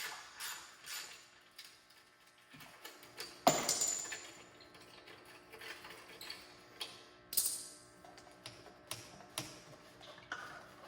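Hand ratchet wrench clicking in short runs while backing off the metric nuts that hold the stock muffler, with one loud metallic clank about three and a half seconds in.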